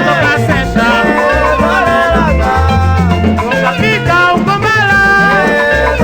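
Instrumental break of an East African dance-band rumba song: melodic lead lines over a repeating bass line and percussion.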